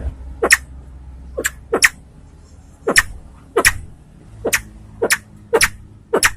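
Crested fireback pheasant, white-tailed form, giving a series of about ten short, sharp call notes at uneven intervals, some in quick pairs.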